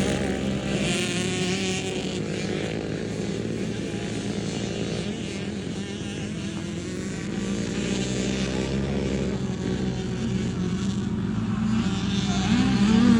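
Small youth dirt bike engines running at steady revs, the pitch and loudness rising near the end as the revs climb.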